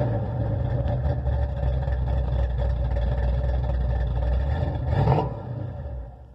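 Small-block Chevy 355 V8 with a hydraulic roller cam, exhaling through long-tube headers and dual straight pipes into turbo mufflers dumped at the axle, idling steadily. A short rev blip comes about 5 s in, then the sound falls away near the end.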